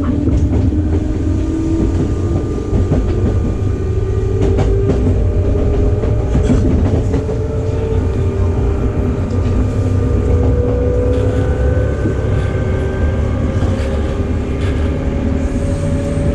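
Electric commuter train running, heard from inside the passenger car: low rumble of wheels on rail with scattered clicks, and the traction motors' whine rising slowly and steadily in pitch as the train gathers speed.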